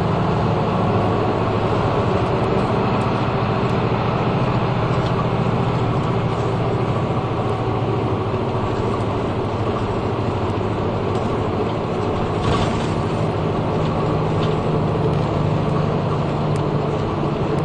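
Inside a route bus while it is under way: a steady drone of engine and road noise, with a few light rattles and clicks from the cabin.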